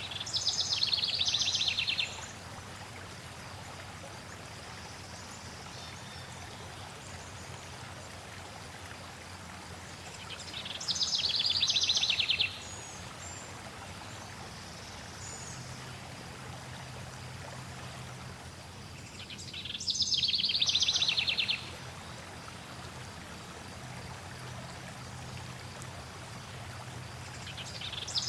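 Steady flowing water, with a songbird singing a short, fast trilled phrase about two seconds long three times, roughly every ten seconds; the bird phrase is louder than the water.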